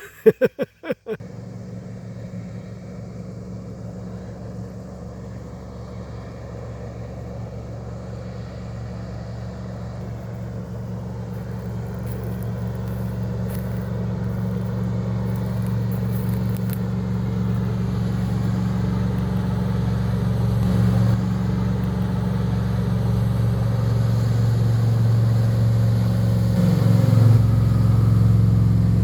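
A steady low hum like a motor vehicle running, growing slowly louder throughout, after a few sharp clicks in the first second.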